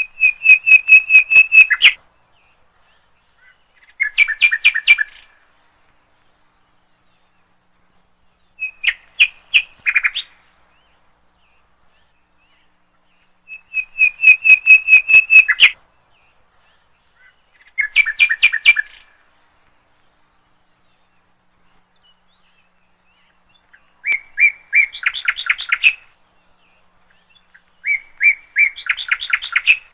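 A songbird singing loud, short songs, each a quick run of repeated high notes, seven songs with silence between them.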